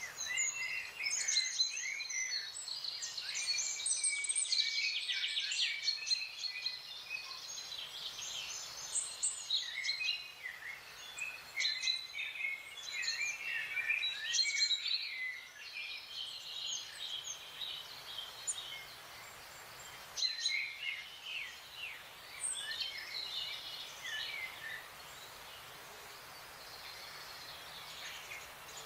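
Several small songbirds chirping and trilling over a faint steady background hiss, many calls overlapping in the first half, thinning out to scattered calls toward the end.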